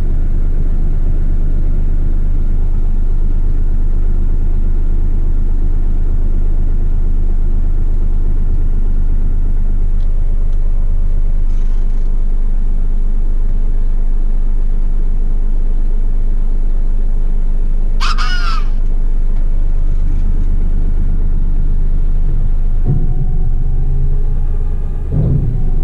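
Heavy rigid truck's diesel engine running steadily, a loud even rumble. About two-thirds of the way through there is one short, high-pitched squawk, and near the end the engine note shifts.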